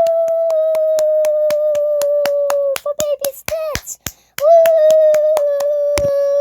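A child's voice holding a long, high sung note that sinks slowly in pitch, breaking into short sliding yelps about three seconds in before taking up the held note again. Under it run quick, even claps or clicks, about four a second.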